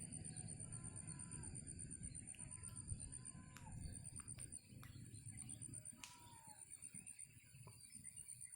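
A few faint, short bird calls, each a brief note that bends at the end, over a steady high-pitched insect trill.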